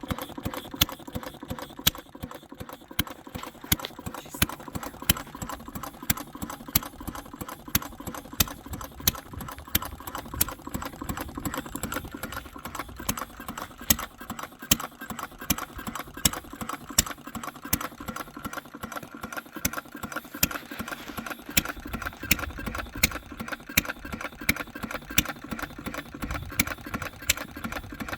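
A working copy of Henry Ford's 1893 single-cylinder gasoline engine running steadily, with a fast mechanical clatter and a sharp louder stroke about twice a second.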